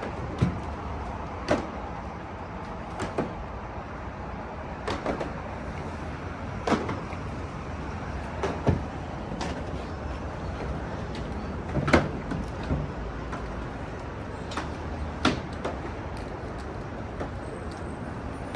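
Steady hiss of a self-service car wash, with irregular sharp knocks and clicks every second or two; the loudest comes about two-thirds of the way through.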